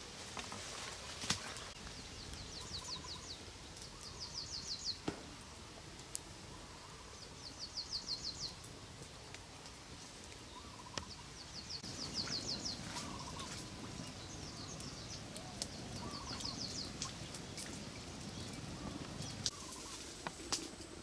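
A bird repeating a short, fast, high trill every few seconds, with fainter calls in the background, over outdoor ambience with scattered sharp clicks and soft rustling.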